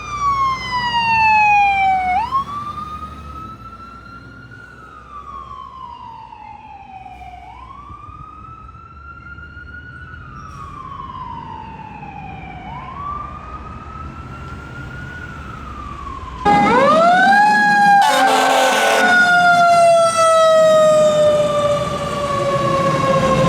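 Fire engine's Whelen electronic siren on wail, rising and falling about every two and a half seconds and fading as the truck moves away. About sixteen seconds in, a much louder siren cuts in close by, with a horn blast of about a second, then a long slow falling wail.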